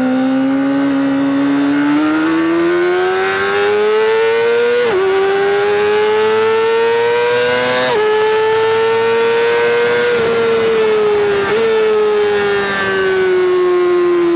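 Honda CBR600RR inline-four through a Leovince titanium race exhaust, pulling hard. The revs climb, drop sharply at upshifts about five and eight seconds in, and climb again. The revs then hold and ease down steadily near the end.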